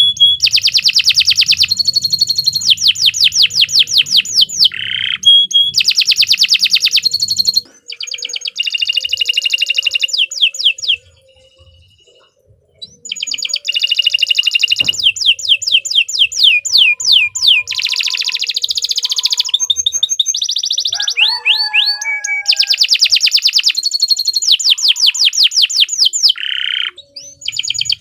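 Domestic canary singing long, rapid trills: runs of quickly repeated high notes in one phrase after another, with a short pause about eleven seconds in.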